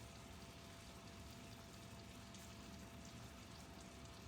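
Near silence: faint steady room tone and hiss with a thin constant hum, and a few faint ticks.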